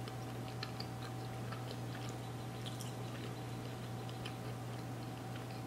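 Faint chewing and small wet mouth clicks of someone eating a soft pretzel dog, over a steady low hum.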